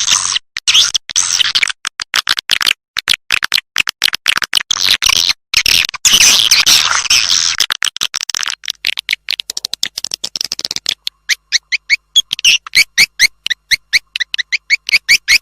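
Recorded swiftlet calls played as a lure to draw swiftlets into a nesting house: a dense run of rapid high clicks and twittering, changing about 11 seconds in to a regular series of short chirps at about four to five a second.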